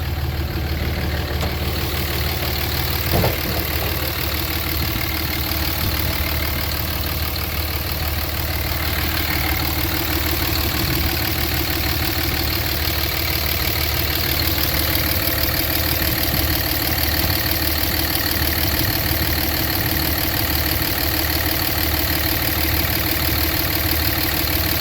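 A 5.9-litre Cummins inline-six turbo diesel in a 2005 Dodge Ram 2500, idling steadily with its deep diesel hum and a steady high turbo hiss. A single short click sounds about three seconds in.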